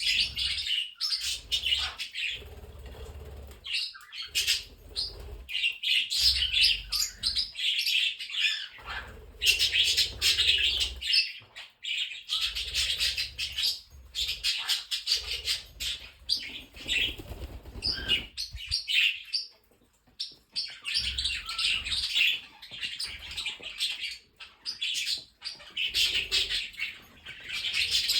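A flock of pet budgies and other small parrots chattering, warbling and chirping in overlapping bursts, with low thumps in between.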